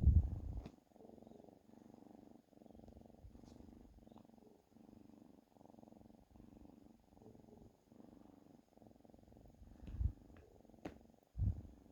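Domestic cat purring close to the microphone: a low, steady rumble that swells and dips with each breath in and out. A few short, louder low bumps come at the start and again near the end.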